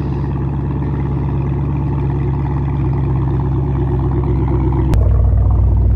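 2011 Camaro SS's 6.2-litre V8 idling steadily just after a cold start, open-sounding through its muffler and resonator delete. About five seconds in the sound changes abruptly to a deeper, louder engine rumble.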